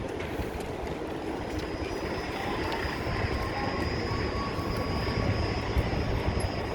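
An aircraft passing over: a steady low engine rumble with a thin high whine, growing louder about three seconds in.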